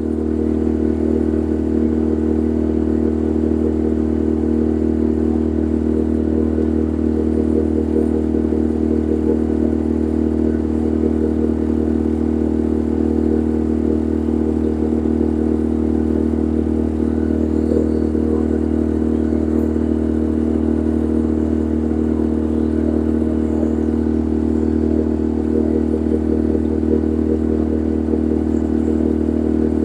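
Boat's engine running steadily at a constant speed, a low even drone that does not change.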